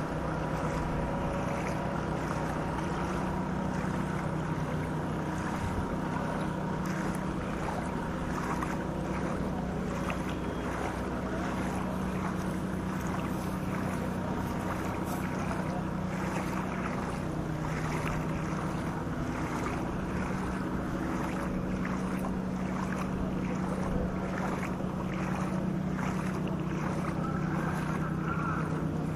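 A motor running steadily with a low hum, under a constant hiss of rain and water.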